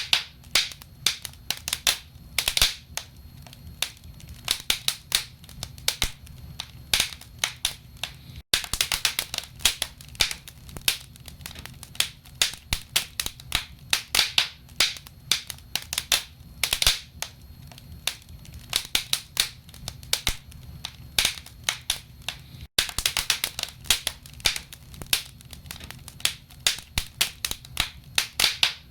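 Wood fire crackling in a fireplace: burning logs give irregular sharp pops and snaps, several a second, over a low steady rumble. The sound cuts out for an instant twice.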